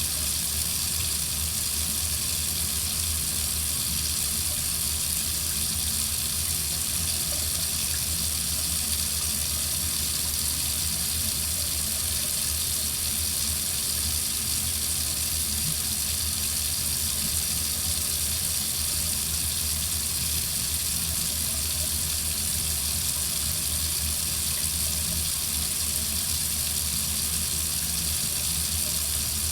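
Water faucet running steadily into a sink, an even, unbroken hiss of flowing water.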